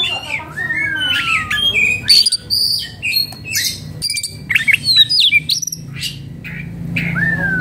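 Oriental magpie-robin singing a fast, varied song of clear whistles and short harsh chattering notes, with a long whistle sliding down in pitch twice.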